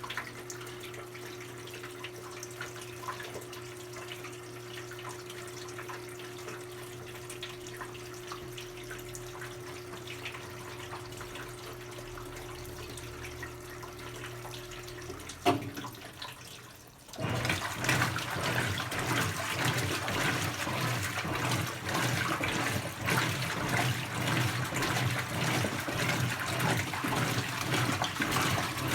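Brastemp 17 kg top-load washing machine taking in water early in its quick cycle: a steady flow with a light hum, then a click about fifteen seconds in. A couple of seconds later a much louder rush of water starts and carries on.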